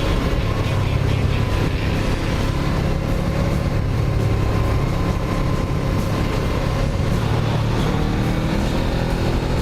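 Suzuki GS500F's parallel-twin engine running steadily while riding, its pitch shifting a little near the end.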